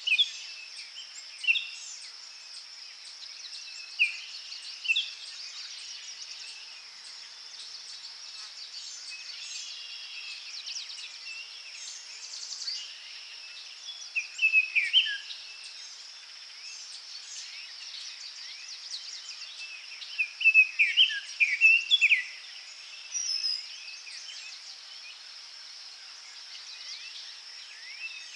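Forest birds calling in scattered clusters of short, falling chirps over a steady high-pitched insect drone.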